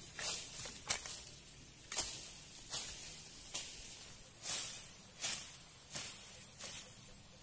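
Hand hoe chopping into soil and weeds: about nine sharp strikes, a bit more than one a second, each with a short scrape of blade through earth and roots.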